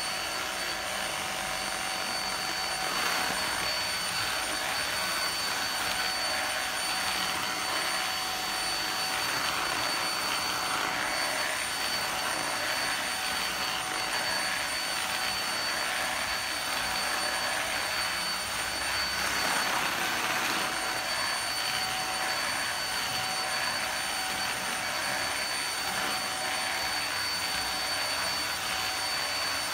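Skylar handheld UV vacuum cleaner running steadily: an even rush of air with a constant high-pitched motor whine on top.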